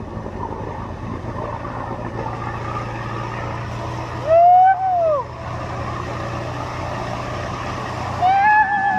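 Off-road 4x4 truck engine running steadily. Over it a person's voice gives two loud, drawn-out yells, each rising then falling in pitch: one about halfway through and one near the end.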